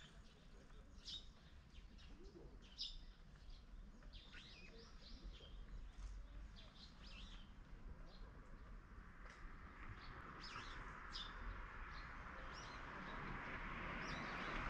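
Small birds chirping and twittering outdoors, many short high calls one after another. From about the middle a rushing noise builds up underneath and grows steadily louder toward the end.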